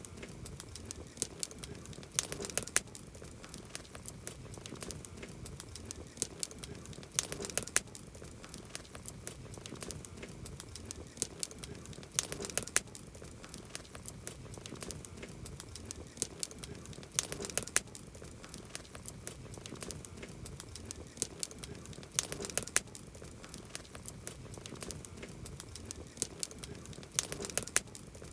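Wood campfire crackling, with scattered sharp pops and a louder flurry of crackles about every five seconds.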